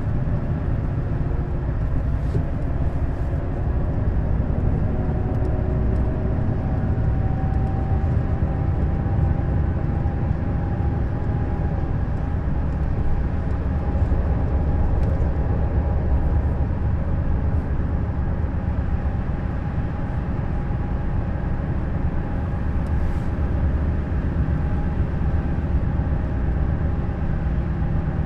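Neoplan Skyliner N 1122/3C double-decker coach driving: a steady diesel engine and road noise, with a whine that rises in pitch over the first several seconds and then holds steady.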